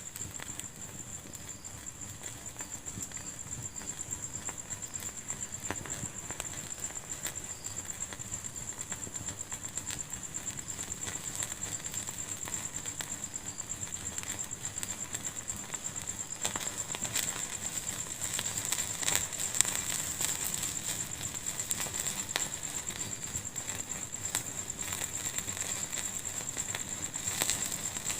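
Wood fire burning in a fireplace, with frequent small crackles and pops over a steady high hiss. The crackling gets busier and louder a little past halfway.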